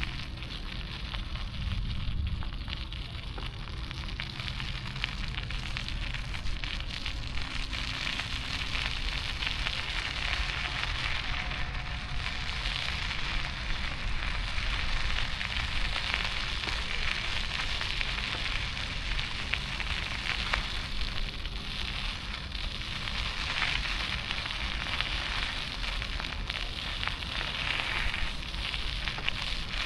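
Steady crackling hiss with a low rumble underneath: street and road noise picked up while riding a bicycle through city streets.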